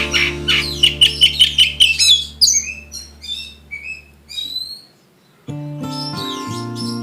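Oriental magpie-robin (kacer) singing a quick run of chirps and whistles in its rough song, over guitar background music. The bird notes thin out and the music fades to a brief silence about five seconds in, then the music starts again.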